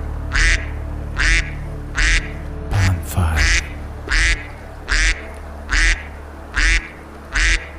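A bird calling over and over: about ten short, harsh calls, evenly spaced a little under a second apart, over soft background music.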